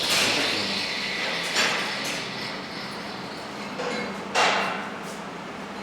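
Three sharp knocks, the first at the start, the second about a second and a half later and the loudest about four and a half seconds in, each trailing off briefly, over a faint steady hum.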